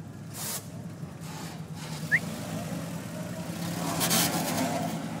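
Vehicle engine running with a steady low hum, with short bursts of hiss, the longest about four seconds in, and a brief high chirp just after two seconds.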